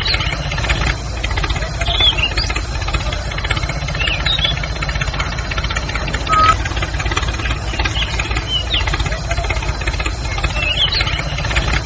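An engine running steadily with a low rumble, and small birds chirping briefly every second or two.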